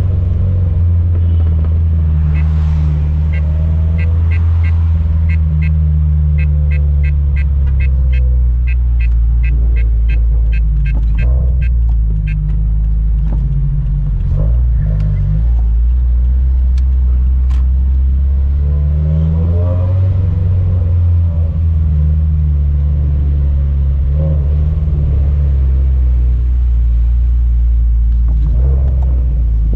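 Turbocharged, straight-piped flat-four of a Toyota 86-platform car (Scion FR-S/Subaru BRZ) running with a deep, steady low drone at low speed. Over it, from a couple of seconds in until about halfway, an even clicking at about three a second, like the car's turn-signal flasher.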